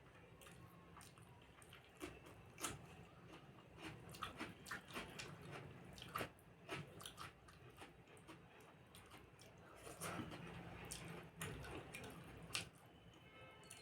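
A person chewing a mouthful of fish curry and rice, with irregular wet mouth clicks and smacks at a low level.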